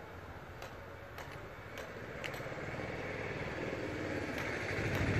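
A motor vehicle's engine running steadily, growing louder toward the end.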